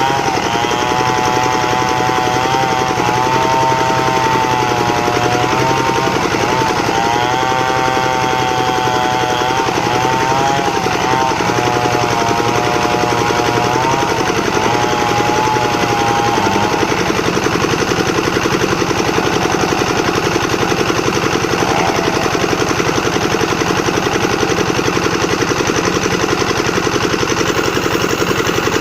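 Engine-driven plank-making (board-sawing) machine running loud and steady. A wavering whine rides over it for roughly the first half, then stops while the machine keeps running.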